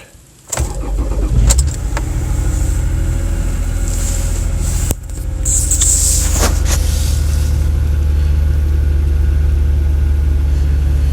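Cold start of a 2007 Toyota Sienna's 3.5-litre V6: the engine cranks and catches about half a second in, then settles into a steady cold idle, dipping briefly about five seconds in before running on evenly.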